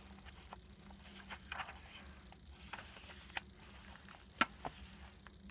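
Faint handling of a junk journal's paper pages and tags: soft rustles with a few sharp clicks and taps, the loudest about four and a half seconds in, as a page is turned over.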